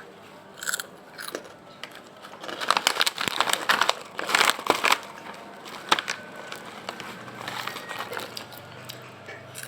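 A crispy snack crunching and crackling as it is handled and bitten, in irregular clusters of sharp crackles, with crinkling of the snack packet.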